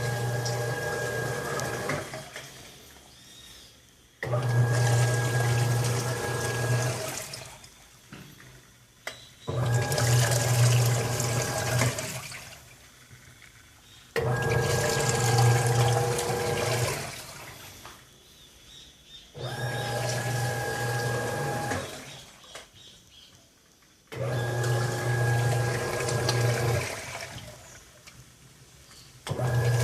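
Consul 6 kg Jasmim washing machine agitating, working again after repair. Its motor hum and the churning water start abruptly and run for about two and a half seconds, then stop for about two seconds, repeating roughly every five seconds.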